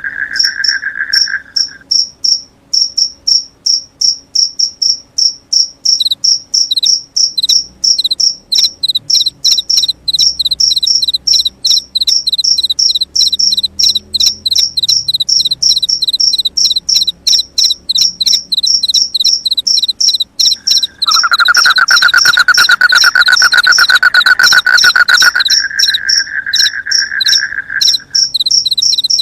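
Crickets chirping in steady, fast repeating pulses, with a second chirping series joining about six seconds in. A lower, rapid trill sounds briefly at the start and again from about two-thirds of the way through until near the end.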